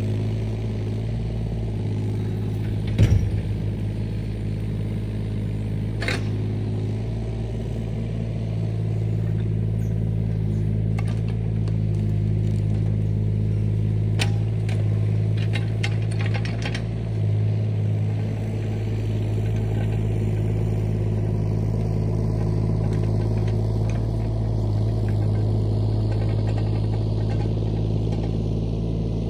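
Heavy earthmoving machinery engine running steadily under work, with a sharp metallic clank about three seconds in, another near six seconds, and a quick run of clanks and rattles around a quarter to halfway through the back half.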